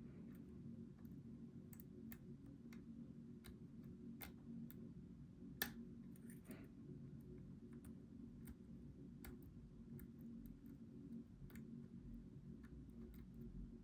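Faint, irregular clicks of a hook pick working the pins of a Goal V18 lock, with one sharper click about five and a half seconds in, over a low steady hum.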